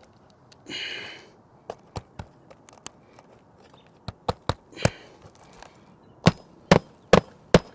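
Hammer driving roofing nails into asphalt shingles: scattered light taps, then a run of four hard strikes about 0.4 s apart near the end. A short scrape about a second in.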